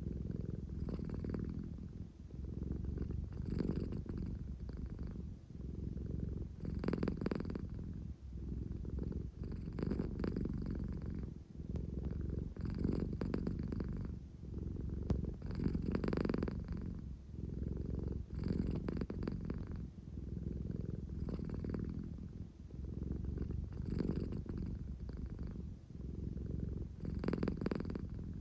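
American Shorthair cat purring steadily, the purr swelling and easing in a regular rhythm about every three seconds: a drowsy cat purring contentedly while wanting affection.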